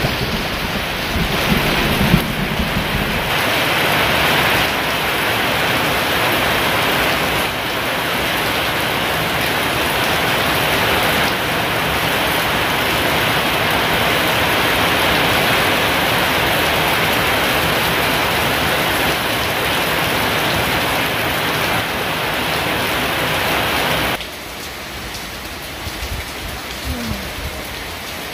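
Heavy rain pouring down steadily, with a low rumble of thunder in the first few seconds. About 24 seconds in the sound drops suddenly to a quieter, lighter rain.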